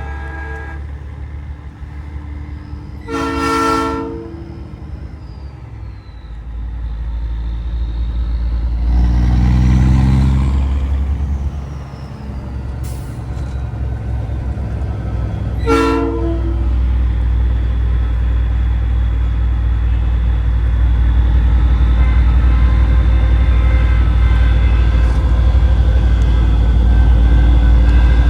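Truck-mounted Nathan Airchime train horn blown in two short blasts, about three seconds in and again about sixteen seconds in, over the big rig's steady diesel engine rumble. The engine swells louder for a moment about ten seconds in.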